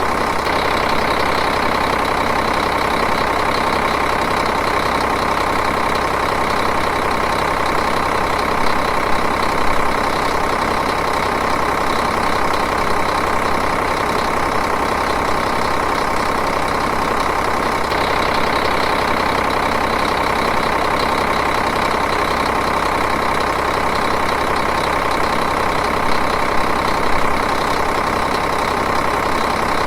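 Diesel engine idling steadily, an even, continuous running sound.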